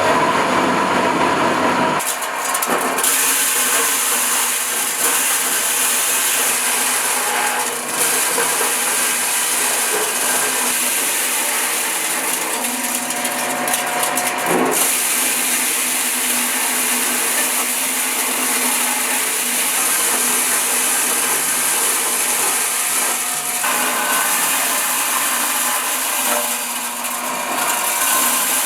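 Motor-driven corn sheller running steadily while ears of corn are fed in and stripped of their kernels: a loud, even whirring rattle that shifts abruptly in tone a few times.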